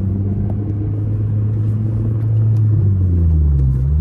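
Flash-tuned 9th-generation Honda Civic Si's four-cylinder engine heard from inside the cabin, running steadily at low speed. Its note drops briefly near the end and then steadies.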